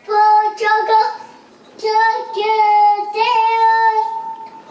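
A toddler singing with no clear words, in a high voice: a short phrase, then after a brief pause a long held note that wavers slightly and fades near the end.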